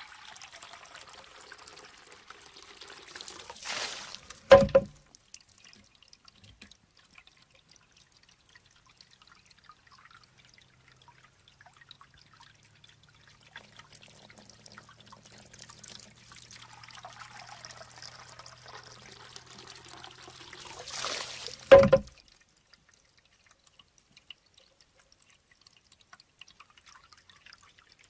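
Shishi-odoshi bamboo water fountain: a steady trickle of water fills the bamboo tube, which tips and pours out its water, then swings back and strikes the stone with a sharp, hollow, ringing knock. This happens twice, about 17 seconds apart, with quieter dribbling between.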